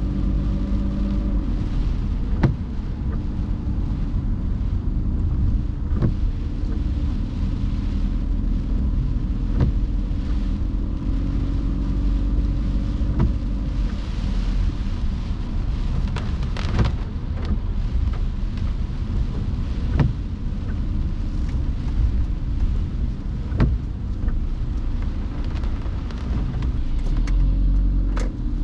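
A car driving on a wet road in the rain: a steady low rumble of engine and tyres under a light hiss of rain and spray. A sharp click comes about every three and a half seconds, and the hiss swells for a few seconds past the middle.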